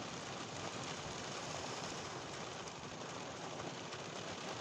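Steady heavy rain falling in a thunderstorm, an even wash of noise.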